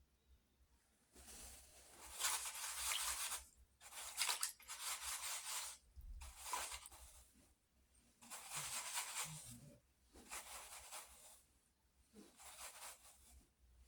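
Pencil scratching across paper in a series of short sketching strokes, each a second or so long, with brief pauses between them.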